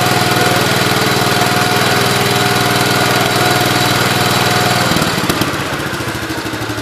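Gravely 8123 tractor's freshly swapped-in 12-horsepower engine running steadily, smooth and even, a sign the newly installed engine is running well. About five seconds in it drops a little in level and pitch.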